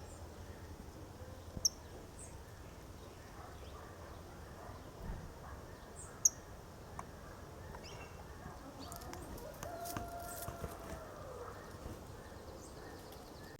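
Scattered short, high bird chirps over a quiet outdoor background, the two sharpest about one and a half and six seconds in.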